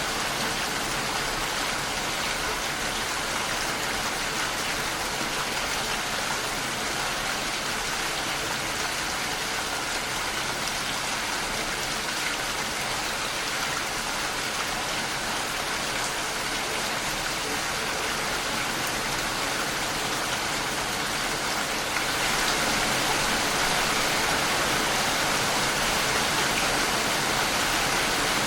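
Steady rainfall, an even hiss of many drops with no single drops standing out; it gets a little louder about 22 seconds in.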